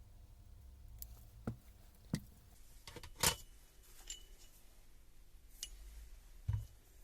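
About eight scattered knocks and metallic clinks of parts and tools being handled on a workbench, the loudest about a third of the way in, some leaving a brief ring.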